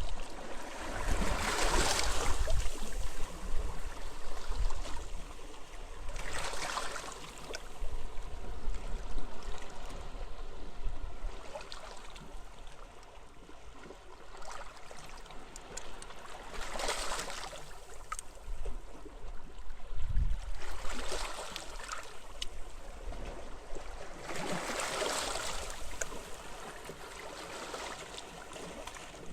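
Sea waves washing in on a beach, four separate surges of hiss that swell and fade several seconds apart. Wind rumbles on the microphone underneath.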